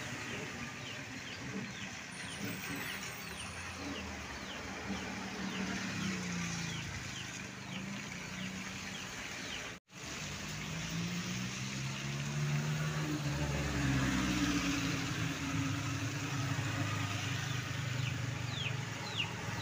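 Truck engine running and labouring, its pitch rising and falling as it works over the uneven road, louder in the second half, with a run of faint high chirps above it. The sound cuts out for an instant a little before halfway.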